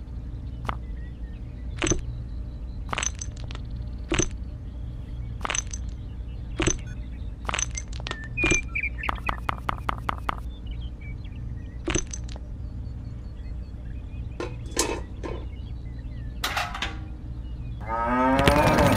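Small white pebbles clicking and clinking one at a time as they are dropped into the bed of a toy cart, with a quick rattling run of clicks about halfway through, over a low steady hum. Near the end a cow's moo comes in.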